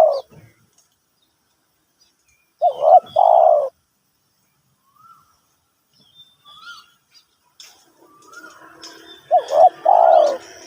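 Spotted dove cooing: a phrase of two short coos and a longer drawn-out one about three seconds in, repeated about nine seconds in, with the tail of another phrase at the very start. Small birds chirp faintly in between.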